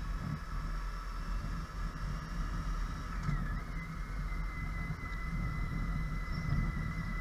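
Vehicle on the move heard from inside, with a steady low rumble of engine and road noise; a thin steady high whine comes in about halfway through.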